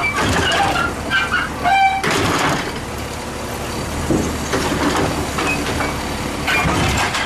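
A loud truck-like vehicle sound: a steady engine rumble with noisy hiss and brief high squeals scattered through it.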